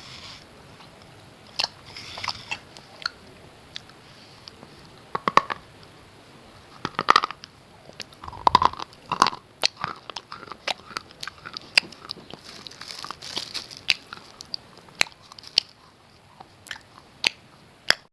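Slate pencils being bitten and chewed close to the microphone: sharp, irregular crunches and clicks, coming thickest through the middle.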